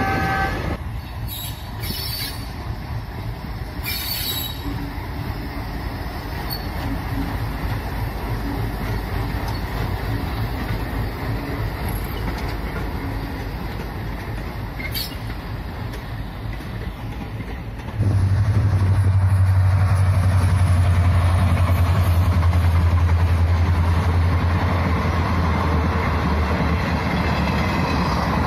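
Diesel-hauled passenger trains in motion: first an express pulling away behind its diesel locomotive, the coaches rolling along the rails with a few sharp clanks. About 18 seconds in the sound jumps to a louder, steady low rumble as a rake of coaches rolls past.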